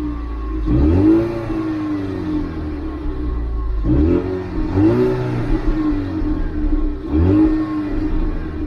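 2020 Ford Mustang EcoBoost's 2.3-litre turbocharged four-cylinder revved through its dual exhaust, three times about three seconds apart. Each rev rises and falls back to a steady idle.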